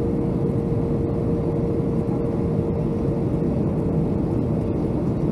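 Cabin noise inside a Boeing 757-200: a steady low rumble of engines and rushing air with a steady hum running through it.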